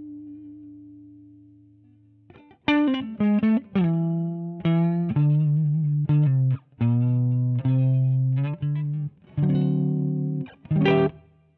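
Electric guitar played through an Emmergy FX Flaming Cake Fuzz pedal. A held note dies away, then about two seconds in comes a riff of short notes with sharp stops between them, ending on a chord that rings briefly and fades.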